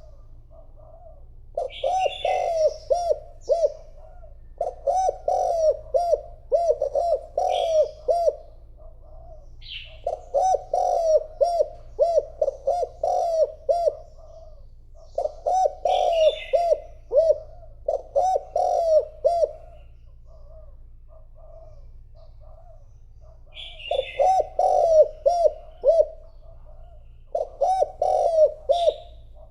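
Spotted dove cooing in repeated phrases of several quick coos, a phrase every two to three seconds with a longer pause about two-thirds of the way through. It is the urging call of a decoy dove used to lure wild spotted doves. Short high chirps from small birds come between the phrases.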